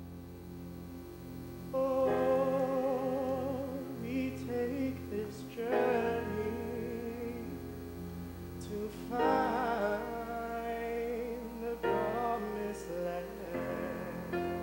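Live musical-theatre performance: voices sing long held notes with vibrato over instrumental accompaniment, moving to new chords every three or four seconds. A low steady hum runs underneath.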